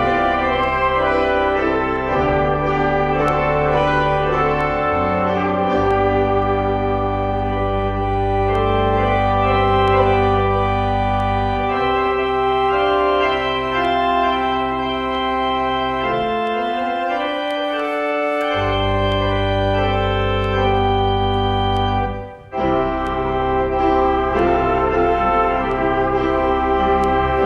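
Organ playing Easter music in full, sustained chords over a deep pedal bass. The bass drops out for a couple of seconds past the middle, and there is a brief pause about 22 seconds in before the chords return.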